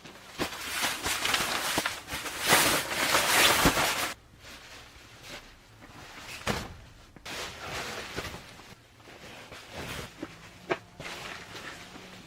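Rustling and shuffling of camping gear being laid out on a tent floor, with footsteps and a few sharp knocks. It is loudest for the first four seconds, then goes on more quietly in short bursts.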